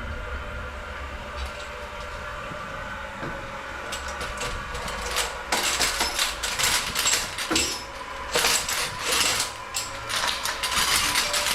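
Spring drain auger's metal coil scraping and rattling in irregular scratchy bursts, starting about halfway in after a faint steady hum.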